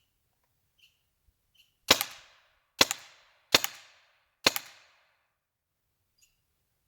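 Paintball marker running on a freshly filled 3,000 PSI compressed-air tank, fired four times about a second apart; each shot is a sharp pop with a short ringing tail.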